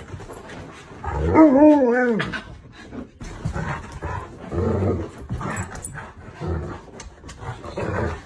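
A dog vocalising: a loud, wavering howl-like whine about a second in, followed by a series of short low grumbling sounds roughly once a second.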